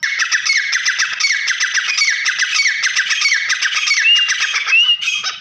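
Grey francolins calling: a dense, continuous run of loud, rapidly repeated high call notes that starts and cuts off abruptly.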